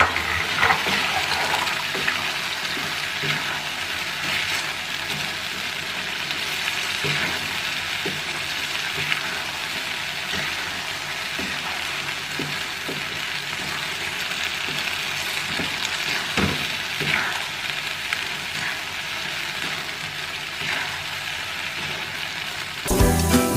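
Meat frying in a pan of dried-down rendang spice paste, with a steady sizzle and occasional scrapes and taps as it is stirred. Music comes in near the end.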